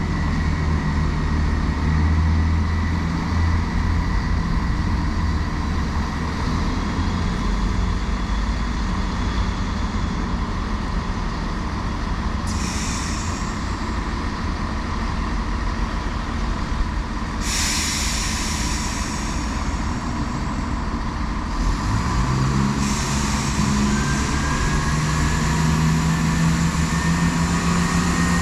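Diesel passenger trains at a station, their engines running with a low drone. Short bursts of hissing break in three times. About 22 seconds in, one engine's note rises as it powers up.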